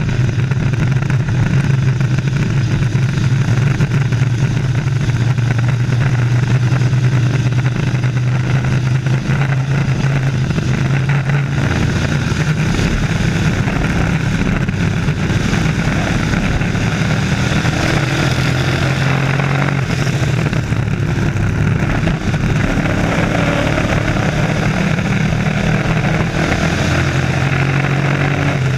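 Race trucks circling an oval track, their engines running loud and steady, the pitch shifting a little as they go through the turns.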